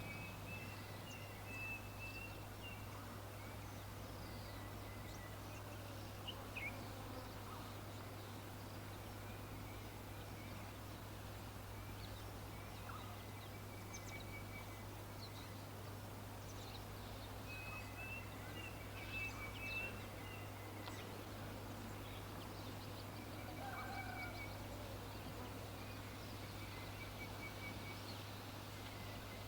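Birds calling faintly, with short rapid trills repeated every few seconds and scattered single chirps between them, over a steady low hum.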